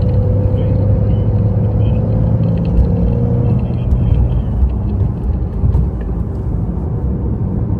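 Porsche 992 Carrera T's twin-turbo flat-six and road noise at speed on track, a steady low rumble. A faint whine drifts slightly lower and fades out about three and a half seconds in.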